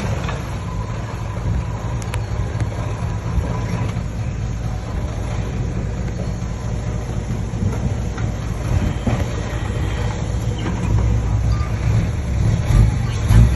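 Heavy diesel earthmoving machinery running: a steady, deep engine drone that swells briefly near the end.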